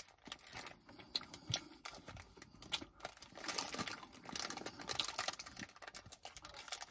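Close-up eating sounds: irregular soft crunches, clicks and wet mouth smacks as a wafer ice-cream cone is bitten and chewed.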